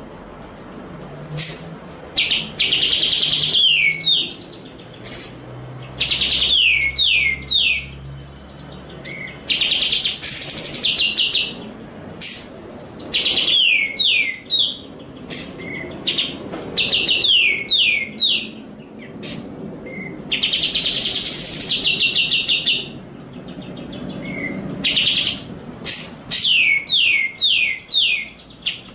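Songbird song from a tutoring (masteran) recording: bursts of sharp chirps, short buzzy trills and runs of quick descending whistles, the same phrase sequence coming round again about every ten seconds.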